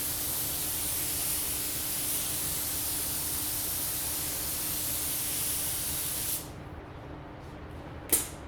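Compressed-air paint spray gun hissing steadily as it lays a light mist coat of paint on a car body panel, stopping abruptly about six seconds in. A sharp click follows near the end.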